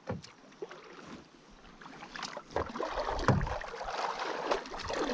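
Canoe paddles dipping and pulling through the water, with splashes, drips and short knocks. It is quiet for the first two seconds or so, then gets busier.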